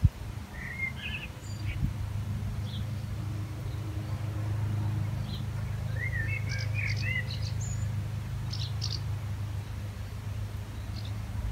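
Small birds chirping: a few twittering notes about a second in and a longer run of chirps midway, over a steady low hum.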